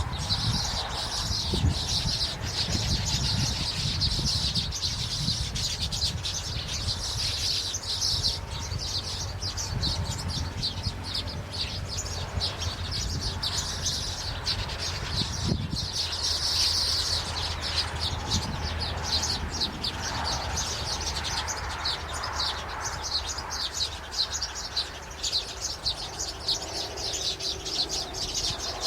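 Birds chirping rapidly and continuously in a high register, over a low rumble.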